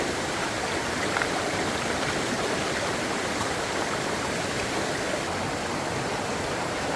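Steady rush of flowing water, an even unbroken noise with no change in level.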